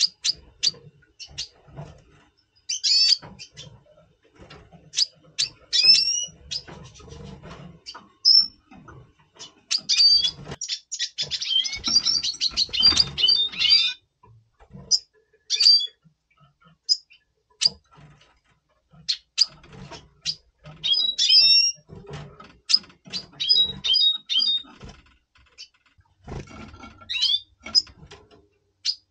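Red siskins calling in breeding condition: repeated short, high chirps, with a burst of fast twittering song near the middle.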